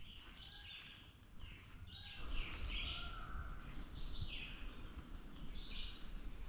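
Songbirds singing in woodland: short repeated high notes and falling phrases, one after another. A low rumble joins in about two seconds in.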